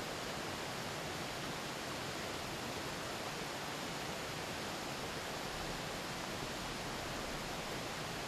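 A river flowing over rocks, a steady, even rush of water with nothing standing out above it.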